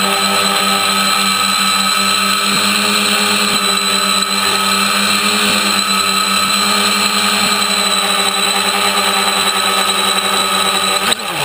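DIY tricopter's electric motors and propellers running with a steady buzzing whine. Near the end the motors spin down, the pitch falling sharply.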